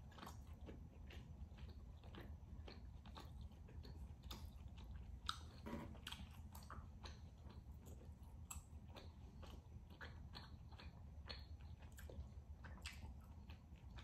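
Close-up chewing of rare beef tenderloin: faint, irregular wet mouth clicks and smacks, a slightly louder click about five seconds in.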